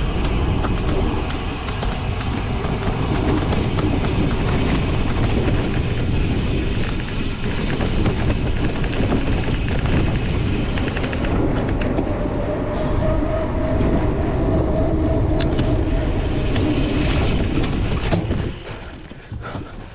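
Wind rushing over the microphone and the rumble of a cyclocross bike riding over rough ground at race speed. It drops off sharply near the end.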